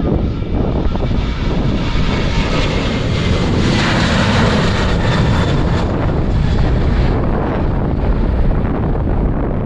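Boeing 737-800 twin CFM56 turbofans at takeoff power as the jet passes. The jet noise swells to its loudest about four to seven seconds in, then eases. Strong wind buffets the microphone throughout.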